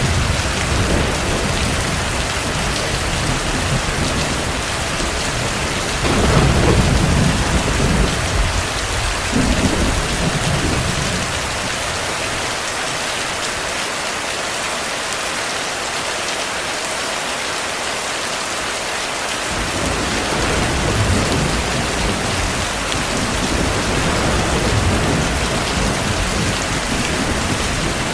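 Heavy rain falling steadily, with rolls of distant thunder rumbling under it: the strongest roll about six seconds in, another around ten seconds, then a lull before the rumbling comes back in the last third.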